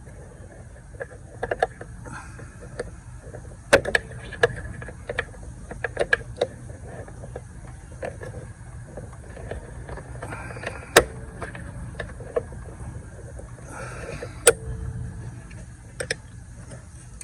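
Scattered clicks and knocks of hand tools and engine parts being handled during disassembly under the hood, with a few sharp louder clacks and two brief scraping rustles, over a steady low hum.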